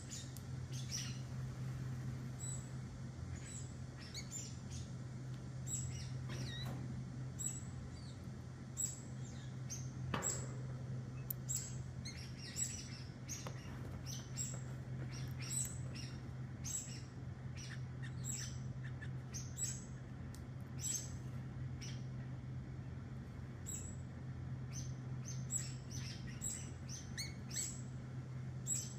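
Vinous-throated parrotbill chirping many times in short, sharp, high calls, over a steady low hum.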